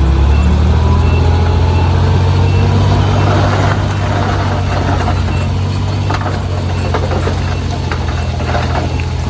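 Heavy diesel engine of earthmoving machinery running steadily. From about three seconds in there is a stretch of rattling and clanking, and a faint beep repeats about once a second through the first half.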